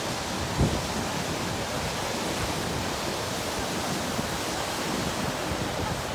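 Steady rushing outdoor noise, with one brief low thump about half a second in.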